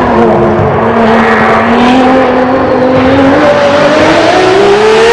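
Racing car engine sound effect. The engine note climbs steadily as the car accelerates.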